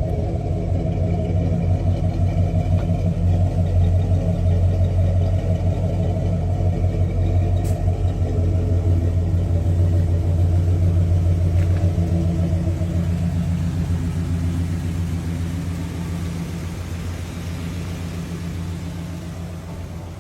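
1974 Chevrolet El Camino's 350 V8 running steadily through its dual exhaust with a deep, even rumble, fading out gradually toward the end.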